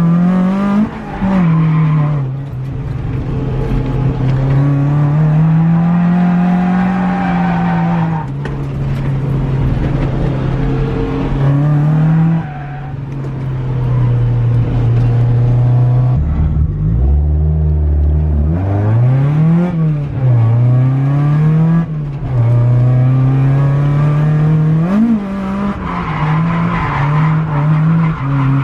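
Toyota AE86's BEAMS 3S-GE four-cylinder engine revving hard on a drift run. The pitch climbs and falls again and again with the throttle and drops sharply at gear changes, around a third of the way in and again over halfway, with some tyre squeal.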